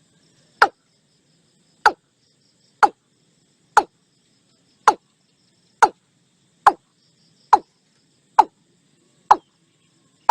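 Watercock calling: a series of about eleven short, sharp notes, each falling quickly in pitch, repeated roughly once a second and quickening slightly. A faint insect buzz runs underneath.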